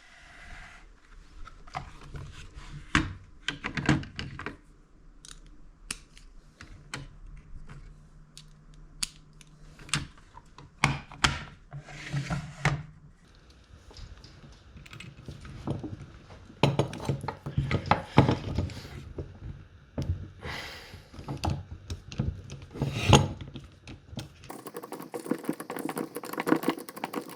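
Old hand drill parts and tools being handled on a workbench: irregular metallic clinks, clicks and knocks. Near the end a steadier scratchy noise sets in.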